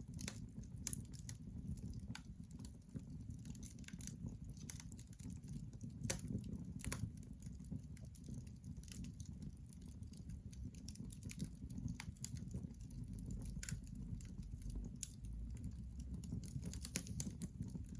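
Logs burning in a fireplace: irregular sharp crackles and pops of the wood over a steady low rumble.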